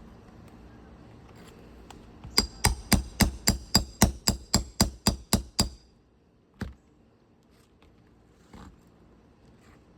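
Roofing hammer striking a metal nail-removal tool on an asphalt shingle roof: a quick run of about thirteen ringing metal blows, about four a second, then a single knock a second later, driving the tool in to pull the shingle nails.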